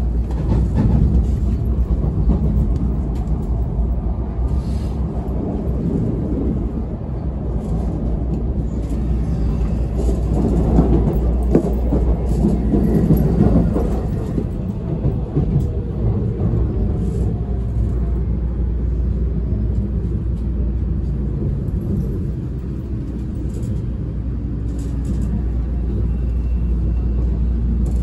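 Running noise inside an N700 series Shinkansen car as it slows into a station: a steady low rumble of wheels and running gear on the rails, louder for a few seconds near the middle, with a few faint clicks.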